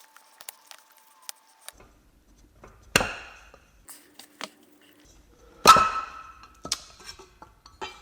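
Metal clanks of hand tools and automatic-gearbox drum parts being handled on a workbench: a few light clicks, then two sharp metallic knocks about three and six seconds in, each ringing briefly, with a smaller click after the second.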